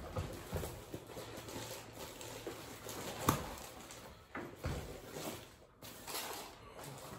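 Hands unpacking a boxed model locomotive: scattered light knocks and rustling of packaging, with one sharper knock a little past three seconds in.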